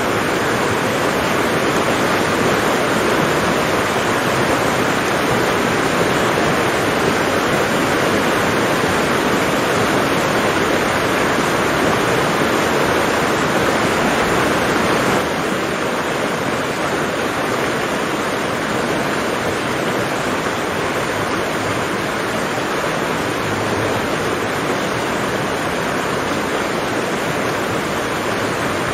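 Steady rushing hiss of rain, even throughout, dropping slightly in level about halfway through.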